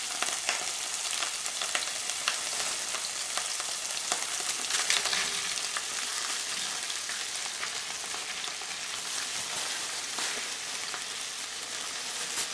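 Frozen chopped bell pepper frying in hot sunflower oil in a pan: a steady sizzle full of spitting crackles as the oil spatters, swelling a little around the middle as more frozen pepper is tipped in.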